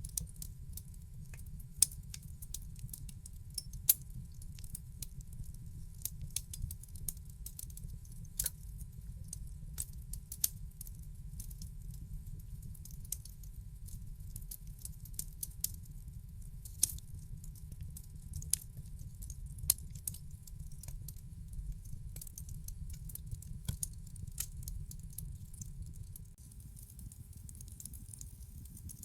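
Wood fire in a fireplace crackling: irregular sharp pops and snaps, a handful much louder than the rest, over a low steady rumble.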